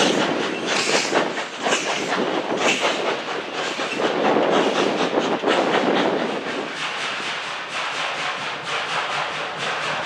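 Narrow-gauge steam train passing: the exhaust chuffs of the steam locomotive, about one a second, give way about two-thirds of the way through to a faster, steady clicking of car wheels over the rail joints.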